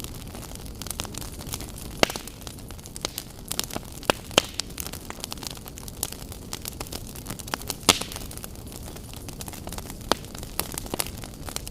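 Wood fire burning in a fireplace: a steady low hiss under irregular sharp crackles and pops, a few louder snaps among them.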